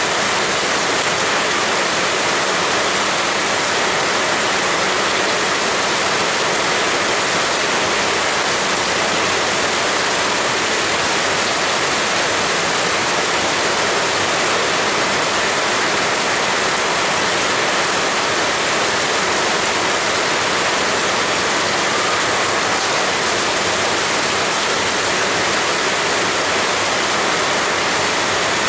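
Heavy rain falling in a steady, dense hiss, even and unbroken throughout.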